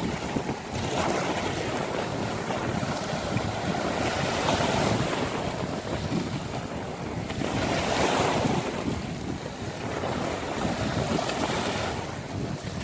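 Sea waves breaking and washing up a beach, surging about every three to four seconds, with wind rumbling on the microphone.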